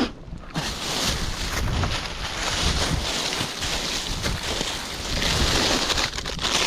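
Wind buffeting the microphone: a steady, gusting rush with a low rumble.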